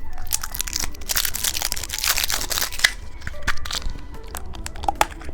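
Candy packaging being handled and opened, with crinkling, crackling and sharp clicks, busiest between about one and three seconds in.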